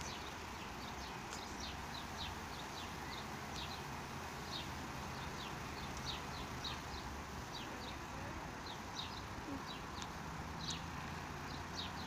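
Small birds chirping: short, high chirps repeating irregularly, several in each second, over a steady low hum of background traffic.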